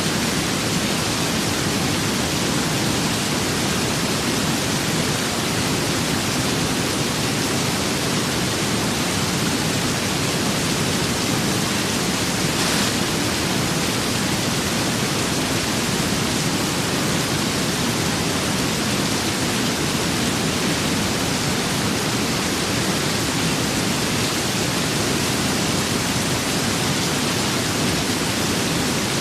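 Steady rain with wind: a dense, even hiss with no single drops standing out.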